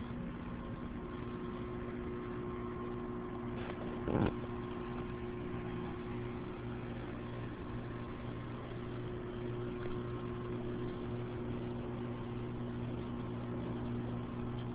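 A steady mechanical hum over an even hiss, with one short knock about four seconds in.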